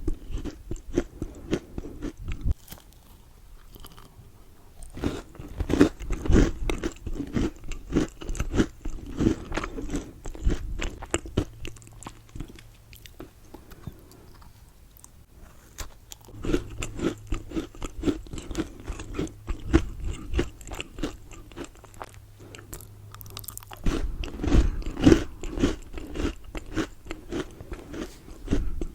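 Close-miked eating of Milka chocolate: biting and crunchy chewing in several bursts, with quieter pauses between them.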